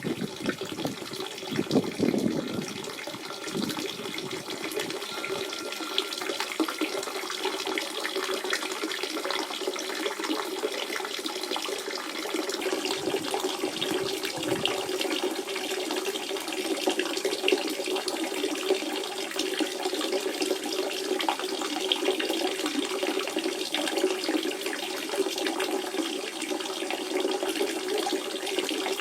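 Natural spring water running and trickling steadily, with deeper gurgling swells in the first few seconds and again about halfway through.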